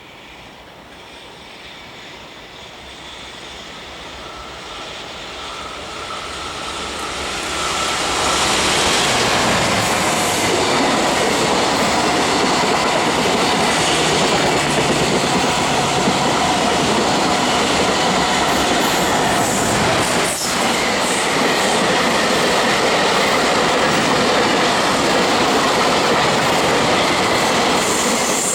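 High-speed freight train approaching, growing louder over about eight seconds, then its locomotive and long string of wagons rushing past steadily at speed.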